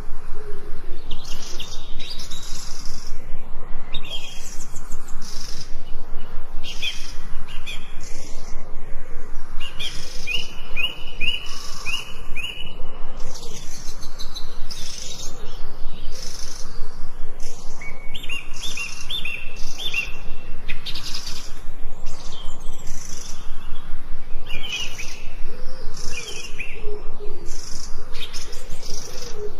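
Several songbirds chirping and singing together, with quick runs of repeated notes, and a low call a few times at the start and near the end.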